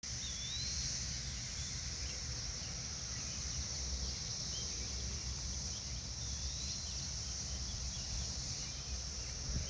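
Brood XIII periodical cicadas in chorus: a continuous high-pitched buzzing that holds steady without a break, with a few faint bird chirps over it.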